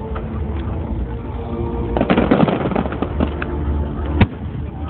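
Fireworks going off: a spell of crackling about two seconds in, scattered pops, and one sharp bang near the end.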